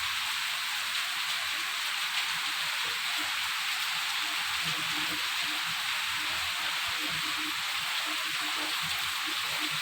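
Heavy rain falling steadily, a dense, even hiss of a tropical downpour.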